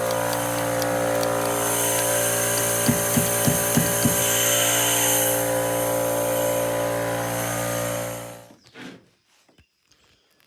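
Air compressor running steadily for a pneumatic nailer, with a few light knocks about three to four seconds in. It cuts off abruptly about eight and a half seconds in.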